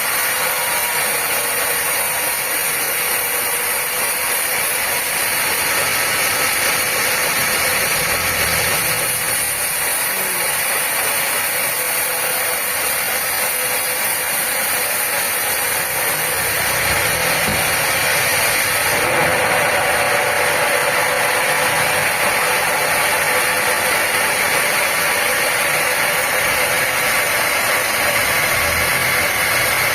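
Sawmill machinery running steadily with a hissing noise. It gets a little louder about two-thirds of the way through.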